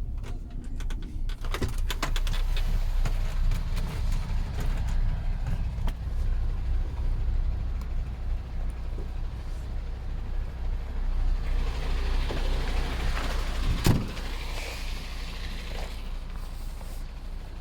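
Motor vehicle running with a steady low rumble, with a few clicks in the first two seconds and one sharp knock about fourteen seconds in.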